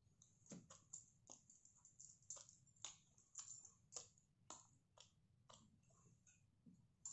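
Faint, irregular wet mouth clicks and smacks of someone chewing a soft pancake, roughly two a second.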